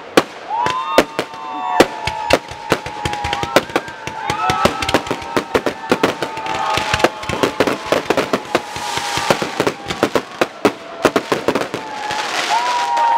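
Fireworks display: a rapid, irregular string of sharp bangs from bursting shells over long wavering high tones. It thickens into dense crackling about two-thirds of the way in and again near the end.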